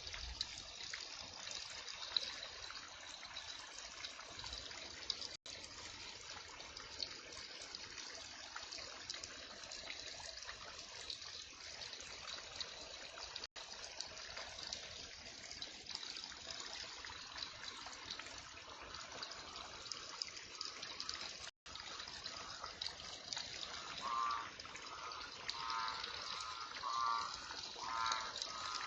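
Heavy rain falling steadily, an even hiss with water trickling. Near the end a frog starts calling over it in short, repeated pulsed croaks about once a second.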